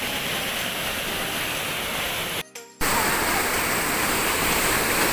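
Waterfall rushing: a steady roar of falling water. It cuts out for a moment about halfway through and comes back louder.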